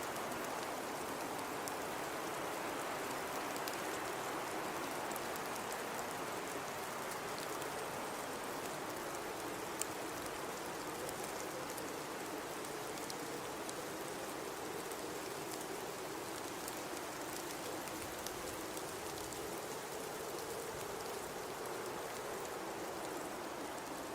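Steady blizzard wind noise with a low howl that slowly wavers in pitch, and faint scattered ticks over it.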